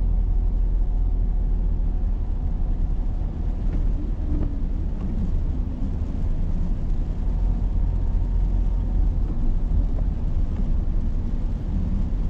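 Steady low rumble of a car on the move, with no sharp events.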